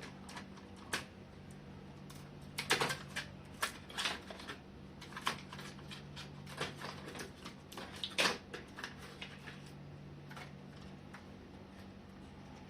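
Irregular small clicks and taps as a screwdriver backs out the screws holding a laptop's motherboard and the loose screws and plastic parts are handled, over a steady low hum.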